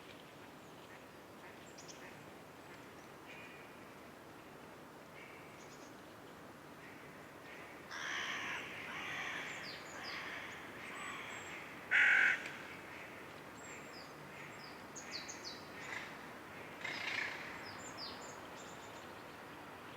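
Birds calling over faint steady outdoor background noise: a run of harsh calls starts about eight seconds in, the loudest a single call near the middle, with a few shorter calls near the end.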